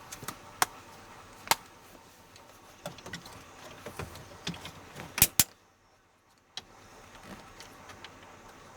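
Scattered sharp clicks and light taps, the loudest a quick pair about five seconds in, followed by about a second of near silence.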